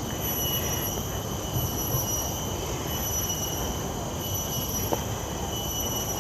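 Cicadas droning in a steady, high-pitched whine that swells and dips slightly, with a few faint low thumps beneath.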